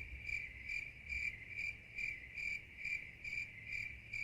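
Cricket chirping, an even high chirp a little over twice a second: the comic 'awkward silence' cricket sound effect.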